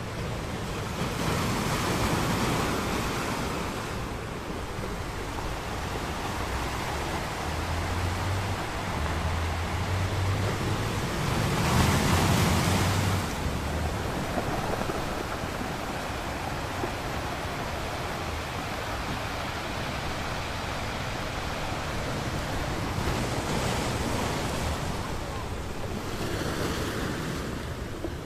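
Ocean surf: waves breaking and washing up a beach in a continuous roar, with waves swelling loudest about two, twelve and twenty-four seconds in.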